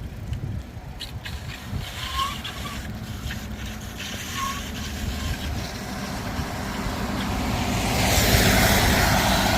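Wind and road rumble on the microphone of a moving bicycle, with a few brief faint squeaks from the bicycle's brake. A vehicle approaches and passes, its hiss on the wet road swelling to loudest near the end.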